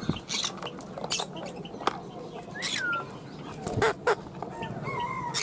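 Birds chirping and calling in short sharp notes, with one call that slides downward in pitch near the middle and a few brief higher squawks.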